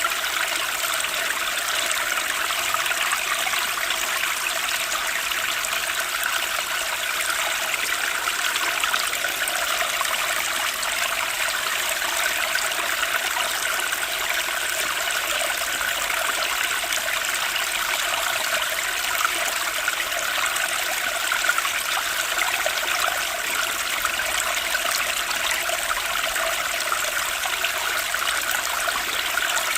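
Running water of a stream, a steady trickling, babbling flow.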